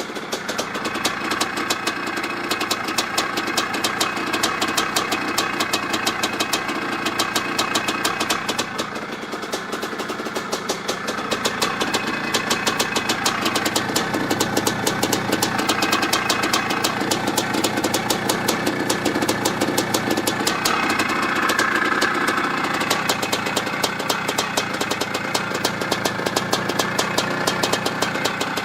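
1985 Maico 500 two-stroke single-cylinder dirt bike engine running steadily, a rapid even beat of firing strokes, its note shifting slightly a couple of times.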